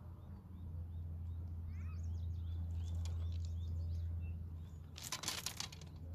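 Steady low rumble of the outdoors with birds chirping, then about five seconds in a short burst of rustling and clatter as a landing net is handled on shoreline rocks.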